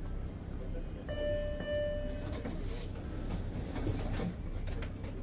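Subway train running with a steady low rumble. About a second in, a single steady electronic beep lasts about a second, followed by scattered light clicks and knocks.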